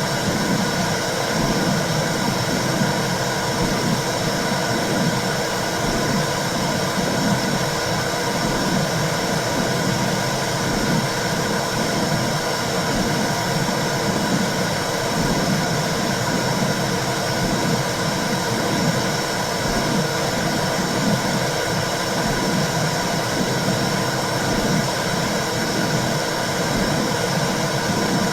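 Womb sound for soothing a baby: a steady whooshing hiss over a churning low rumble, continuous and unchanging.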